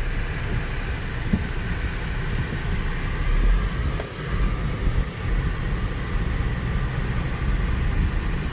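Cabin noise of a Saab 9-3 SportCombi with the 2.0-litre turbo four-cylinder, on the move: a steady low engine and road rumble with tyre noise.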